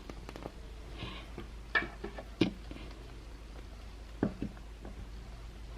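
Small plastic clicks and taps from handling a toy doll while its clip-on pigtails are pushed into place: a handful of scattered short knocks, the sharpest about two seconds in.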